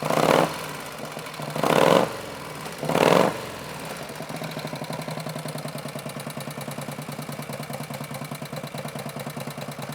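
1962 Harley-Davidson Panhead V-twin engine running: three short, loud surges in the first three and a half seconds, then a steady, evenly pulsing idle.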